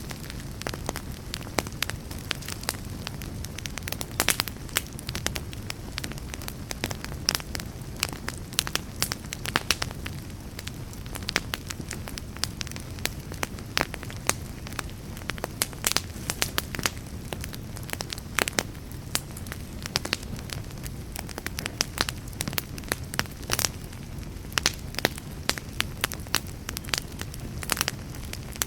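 Wood fire burning, crackling and popping in many irregular sharp snaps over a steady low rumble of flames.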